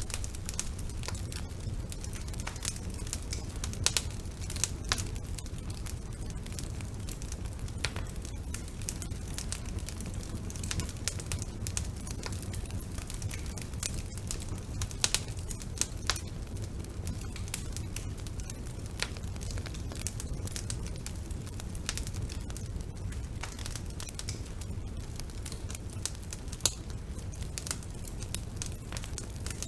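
Wood fire burning in a fireplace: a steady low rumble of flame with irregular crackles and occasional louder pops from the burning logs.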